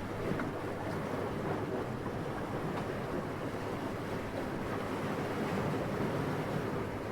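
Steady rushing of gentle wind, soft and low, swelling a little about five seconds in.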